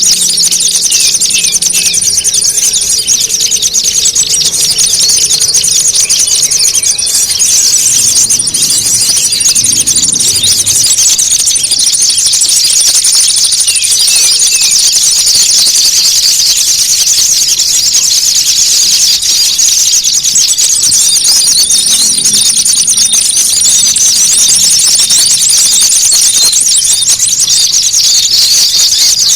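Dense, continuous chattering of many small songbirds calling at once, high-pitched and busy, with a thin steady whistle-like tone above it. This is a bird-lure call track, played to draw small birds in.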